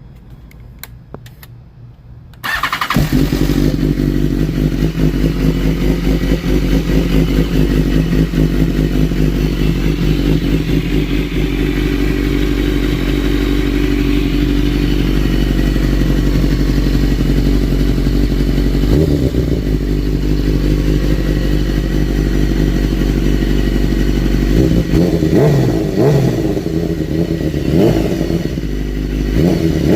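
A 2014 BMW S1000RR's inline-four engine fires on a cold start about two and a half seconds in, through aftermarket headers and a slip-on exhaust. It then idles steadily, and near the end the throttle is blipped several times in short revs.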